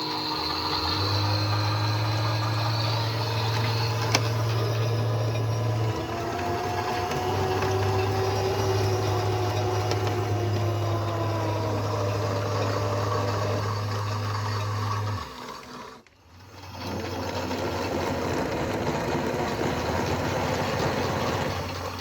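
Front-loading washing machine running mid-cycle: a steady motor hum with a whine that rises and falls as the drum turns, cutting out briefly about three-quarters through before running again.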